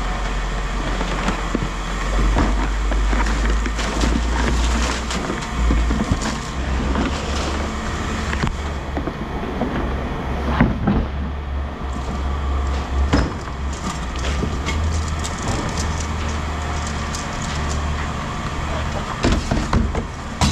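Scrap metal being handled and thrown down, with irregular clanks and rattles over a steady low rumble.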